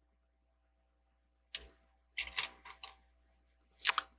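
Small plastic Lego bricks clicking and rattling as they are handled: a single click, then a quick cluster of clicks, and a louder click near the end.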